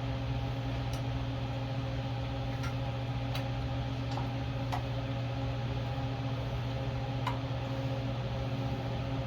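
Overhead shop fan running with a steady hum, with a few light clicks from hands working the engine's carburetor linkage.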